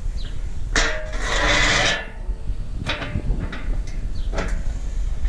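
Sections of a metal motorcycle loading ramp being handled: a long squealing scrape about a second in, then a few sharp knocks.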